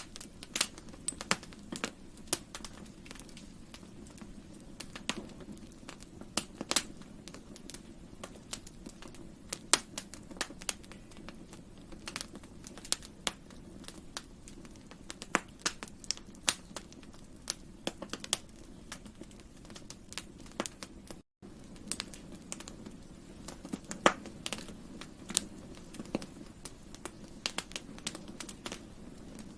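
Wood campfire crackling: sharp, irregular pops and snaps over a steady low rumble of the burning fire, with a momentary drop-out to silence about two-thirds of the way through.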